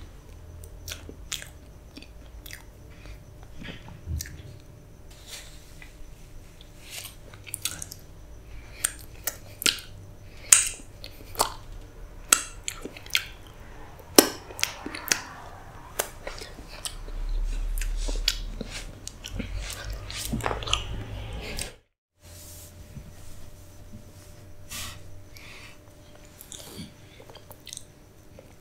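Close-miked mouth sounds of eating Black Forest cake: irregular wet chewing, lip smacks and finger licking. A low rumble runs for a couple of seconds midway, and the sound cuts out briefly near the end.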